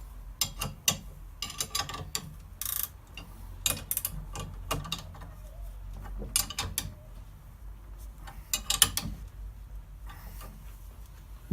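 Ratchet wrench clicking in short repeated strokes as it tightens a puller against a tightly seated bearing, under heavy load.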